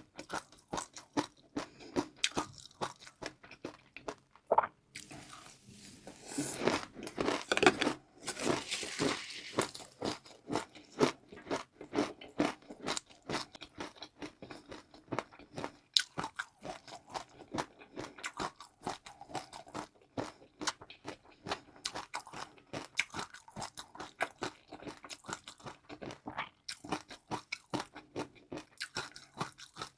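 Close-miked chewing and crunching of crunchy food: a steady run of rapid crisp crunches, growing denser and louder from about six to ten seconds in.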